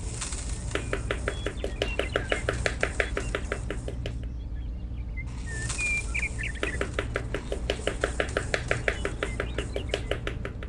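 Rapid light taps of a small hammer on a wooden craft stick, driving it into sand, about seven taps a second in two runs of about three seconds each. Faint bird chirps sound behind.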